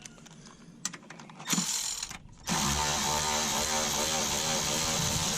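Small clicks and rattles as a hand-held tool is handled, then about two and a half seconds in an electric hair dryer switches on and runs steadily with a loud rush of air over a motor hum.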